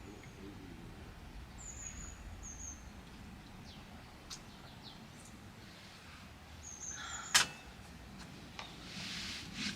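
Birds chirping in short high calls, a few brief pairs of notes. Small clicks throughout, one sharp click about seven seconds in that is the loudest sound, and a soft rustle near the end.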